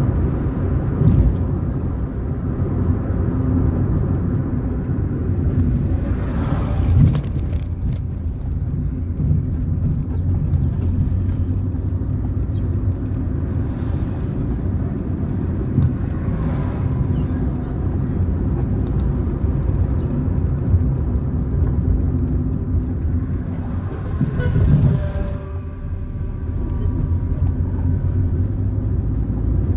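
Car driving along a road: steady engine and tyre rumble, with a few brief knocks and louder passages along the way.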